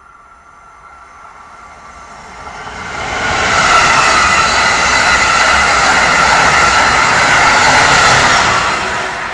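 An Amtrak passenger train passing close by at speed: a broad rushing noise that builds over about three seconds, holds loud for about five, then begins to fade near the end.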